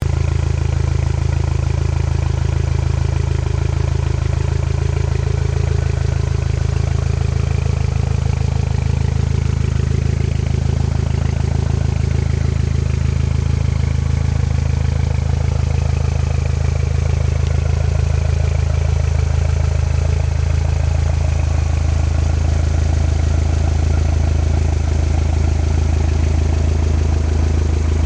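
Toyota MR2's exhaust with the engine idling, a steady low drone that holds even throughout.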